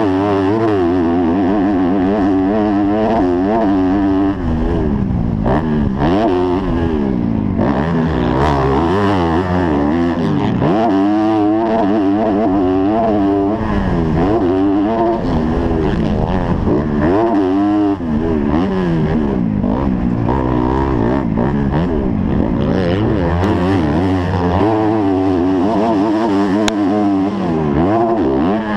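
250-class motocross bike engine revving hard, its pitch climbing and dropping over and over as the throttle is worked through the gears and on and off around the track, with a few brief dips.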